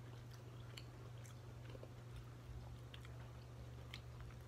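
Faint chewing of a mouthful of cabbage, with soft scattered mouth clicks over a steady low hum.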